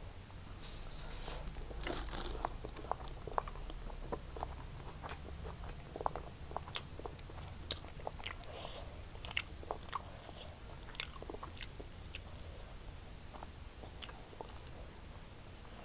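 Close-miked chewing and mouth sounds of someone eating a mouthful of fried rice: irregular wet clicks and smacks, over a faint steady low hum.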